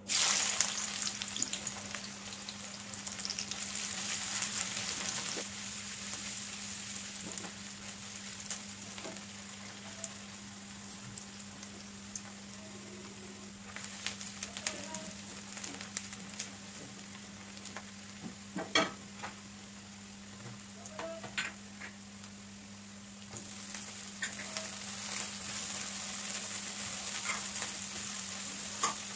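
Sliced onions hitting hot oil in an aluminium wok and sizzling, stirred with a spatula that scrapes and taps against the metal pan now and then. The sizzle grows again near the end as chopped vegetables go in.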